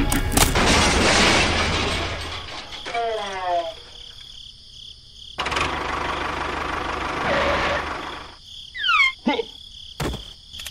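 Toy train crash sound effects: a loud crash about half a second in, with a rush of noise that fades over the next two seconds, then a short falling cartoonish cry. A second rush of noise follows, and quick falling squeaky cries come near the end.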